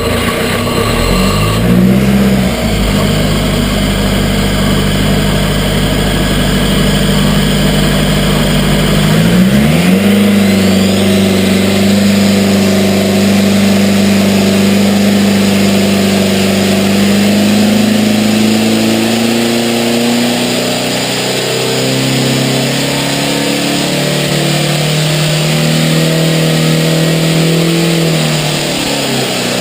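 An engine running at steady speed, its pitch rising sharply twice, about two seconds in and again about nine seconds in, each time holding at the higher speed, then dropping off at the very end.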